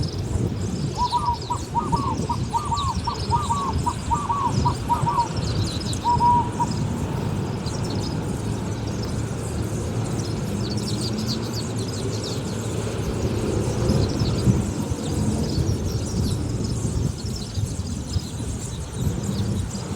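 A bird calling a fast run of about a dozen repeated hooting notes for about four seconds, then a short pair of notes. Smaller birds chirp high and thin throughout over a steady low rumble.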